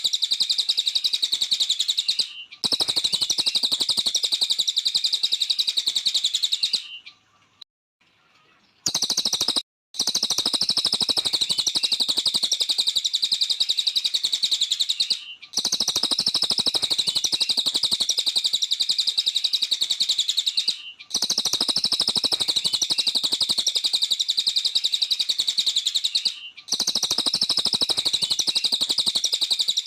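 A cililin, a small songbird kept in Indonesia, singing in full, vigorous song: a rapid, unbroken high trill in long bouts. It breaks off briefly every five or six seconds and pauses for about two seconds around seven seconds in.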